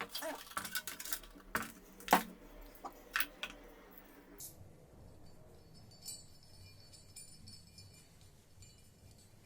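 Metal parts and hardware clinking and knocking as a router is fitted into a router table's mounting. A series of sharp clicks and knocks, the loudest about two seconds in, then only faint handling sounds for the second half.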